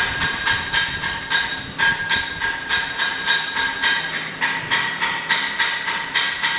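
Hammer striking metal in a steady rhythm, about three to four blows a second, each with a ringing metallic tone.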